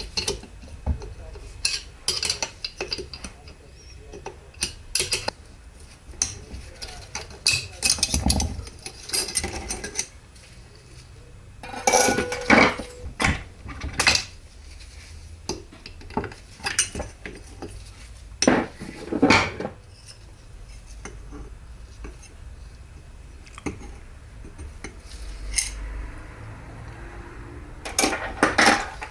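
Metal automatic-transmission parts being handled during a teardown, with irregular clinks and clanks of steel and aluminium pieces knocking together and against a work surface. The clatter comes in busier bursts several times.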